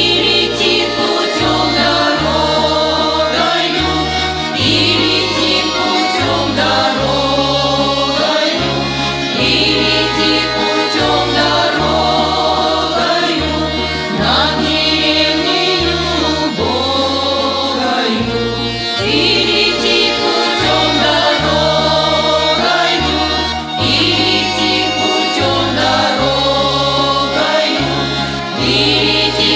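Song sung by a choir of voices over instrumental accompaniment, with a bass line moving in steady note changes.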